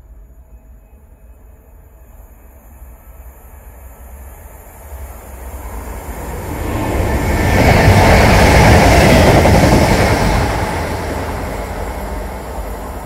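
A passenger multiple-unit train passing through a station without stopping: its rumble builds over several seconds, is loudest about two-thirds of the way in, then fades as it runs away.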